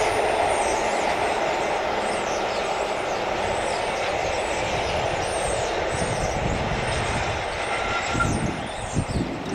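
A freight train's wagons roll past with a steady rumble of wheels on rail and faint high wheel squeals. A few sharp knocks come near the end, then the sound falls away as the end of the train passes.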